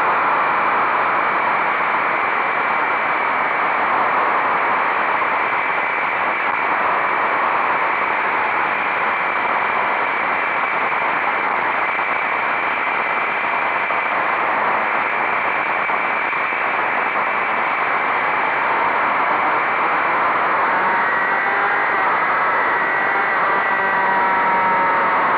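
Motorcycle riding at speed, with a steady rush of wind noise over the engine; near the end the engine's pitch rises and falls as the revs change.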